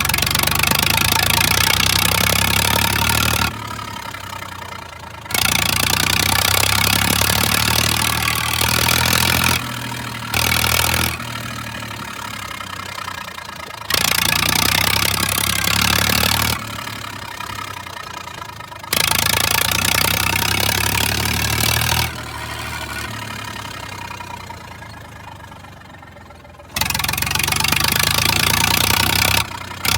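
Massey Ferguson 1035 DI three-cylinder diesel tractor engine running with its silencer removed, open exhaust, very loud. Its loudness steps up and down abruptly every few seconds, in stretches of about three seconds loud and two seconds quieter.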